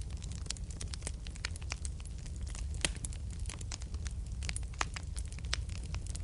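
Wood fire burning in a fireplace: a steady low rumble of the flames with frequent irregular crackles and sharp pops, two of them louder, about three seconds in and just before five seconds.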